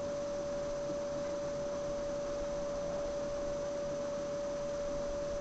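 A steady single-pitched electronic whine that does not change, over faint background hiss.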